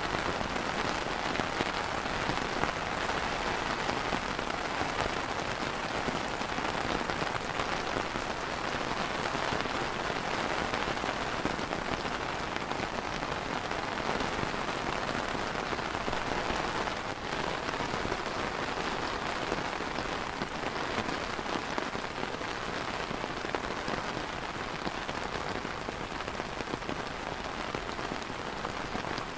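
Steady rain falling on a clear plastic umbrella canopy: an even, unbroken sound of many drops.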